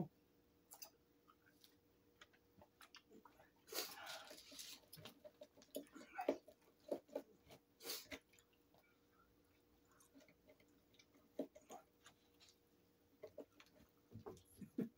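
Faint chewing of French fries, with scattered small mouth clicks and smacks. A short noisy rustle comes about four seconds in.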